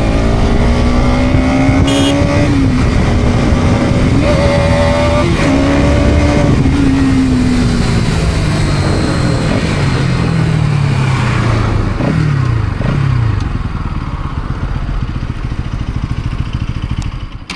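Motorcycle engine on the move: its pitch climbs with a couple of breaks in the first few seconds, then winds down in steps from about seven seconds in, fading away around thirteen seconds. Steady wind and road noise run underneath.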